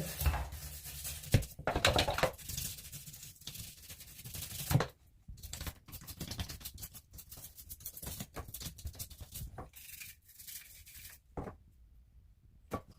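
Shower trap parts being scrubbed and scraped clean of hair and soap scum: irregular rubbing and scraping strokes that stop a little before the end.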